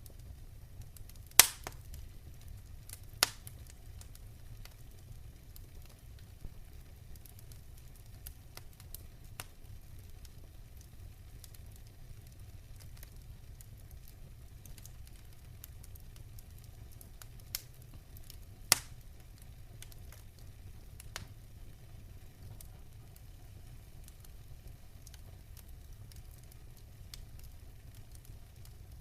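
Wood fire crackling: scattered sharp pops, the loudest about a second and a half in and again a little past halfway, over a low steady rumble.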